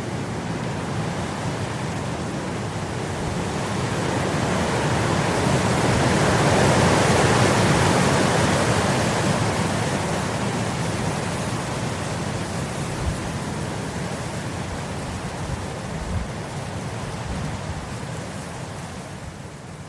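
Wind blowing through grass: a steady rushing that swells to a peak about a third of the way in and then slowly eases off. Two brief low thumps come past the middle.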